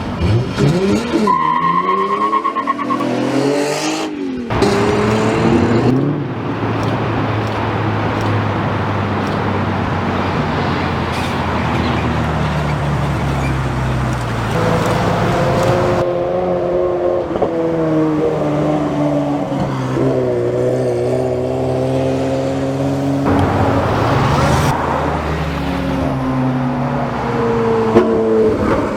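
Several supercar engines revving hard and accelerating one after another, their pitch climbing and dropping with each surge and gear change.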